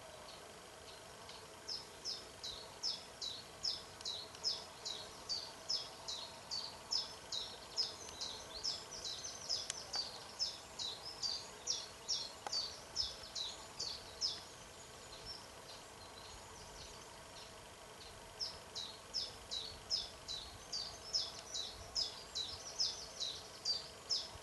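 A small bird calling a short, high, down-slurred note over and over, two or three a second, in two long runs with a pause of a few seconds between them. A faint steady hum lies underneath.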